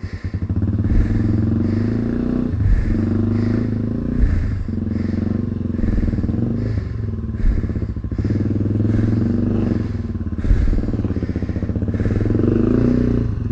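Small single-cylinder four-stroke trail motorcycle engine running at low revs, its pitch dropping and picking up again several times as the throttle is eased and opened, with a few knocks.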